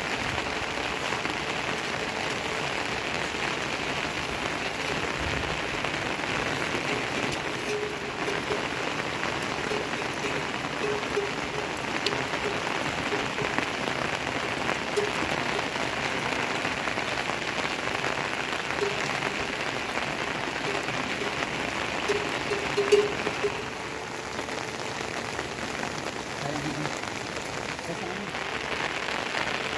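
Steady rain falling on surfaces, an even hiss that eases slightly for a few seconds about three-quarters of the way through.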